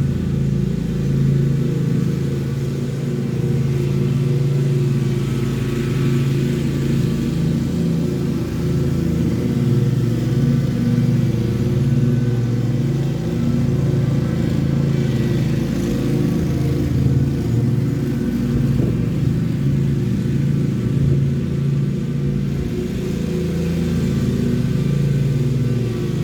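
Lawn mower engine running steadily under load, its pitch wavering slightly as it cuts.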